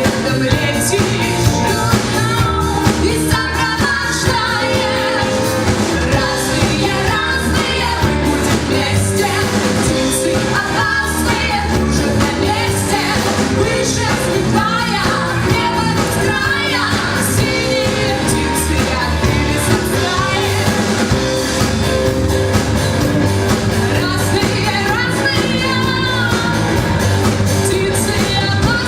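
Pop-rock song: a singer's voice, wavering in pitch as it is held, over a full band accompaniment.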